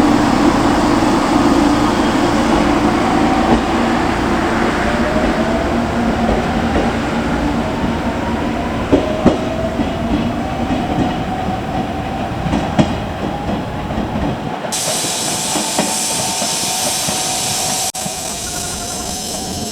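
Train running on the rails: a steady rumble with a few wheel clicks over rail joints, and a whine that rises slowly in pitch over several seconds as the train gathers speed. About three-quarters of the way through, the deep rumble drops away suddenly and a brighter hiss takes over.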